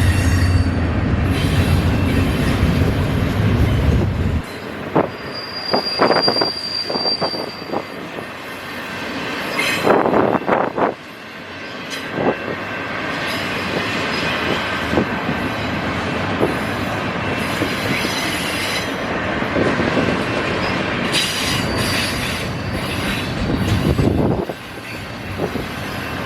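A train rolling past: a heavy low rumble for the first four seconds or so, then the cars going by with clicks and knocks over the rails and a brief high wheel squeal about six seconds in.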